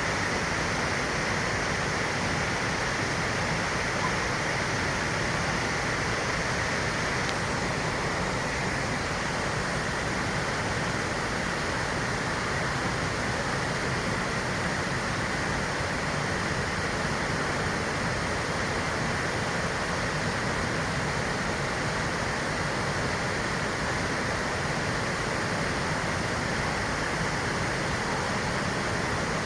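Fountain jets and falling water splashing into the basin, a steady, unbroken rush.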